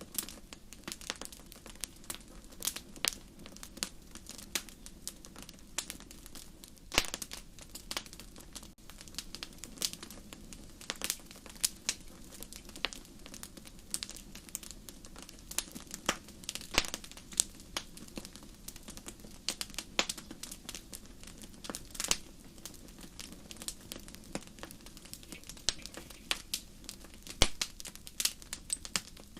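Wood fire crackling, with irregular sharp pops and snaps over a soft steady background of burning. One pop near the end stands out louder than the rest.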